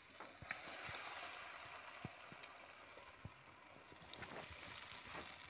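Batter-coated cauliflower florets dropping into hot oil in a steel wok and frying: a soft, steady sizzling hiss that starts about half a second in, with a few small pops and clicks.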